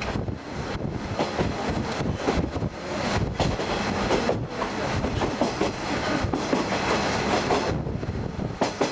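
Diesel railcar train running along the track, the wheels clattering irregularly over the rails under a steady running roar.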